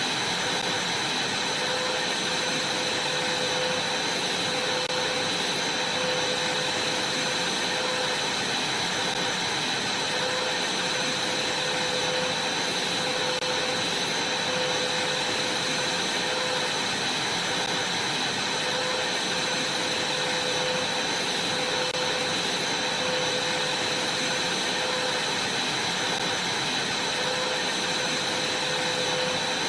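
Vacuum cleaner running steadily over a trampoline mat, a constant rushing air noise with a high whine that never changes.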